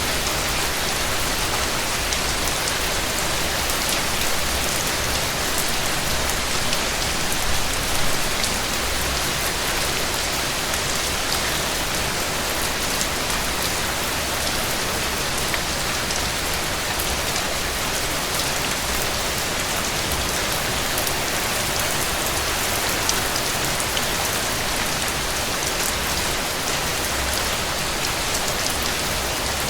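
Heavy rain falling steadily on a surface, an even hiss with many small drop ticks throughout.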